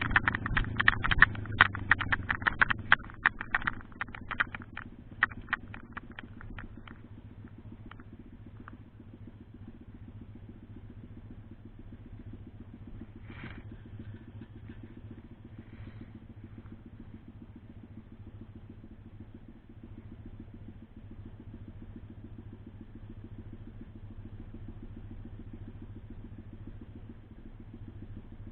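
Road-legal pit bike's small engine, with a burst of sharp clattering clicks over the first few seconds, then settling to a steady low-revving run.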